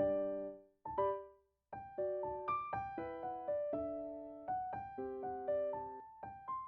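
Background music: gentle piano playing single notes and then a run of overlapping notes, with a short pause about a second and a half in.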